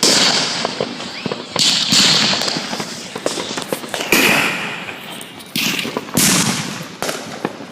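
Fireworks exploding close by: several loud bursts a second or two apart, each fading away in a crackling hiss, with small pops and crackles between them.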